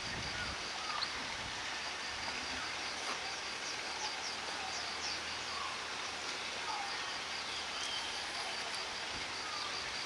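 Birds chirping and calling against a steady outdoor hiss, with a fast, evenly pulsed high note.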